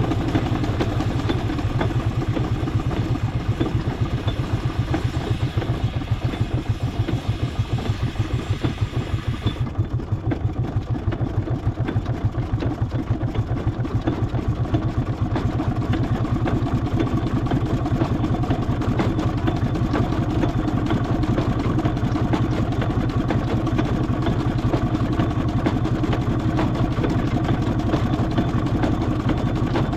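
Engine running steadily with a fast, even beat, heard from on board during a drive. A high hiss in the sound drops away about ten seconds in.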